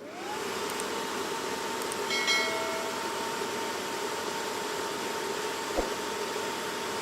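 Ballu heat curtain's fan motor spinning up over the first half second, then running steadily with a whine and a steady rush of air. The fan runs without squealing, its shaft now glued into the rubber coupling so it no longer slips. A short electronic beep sounds about two seconds in, and a click near the end.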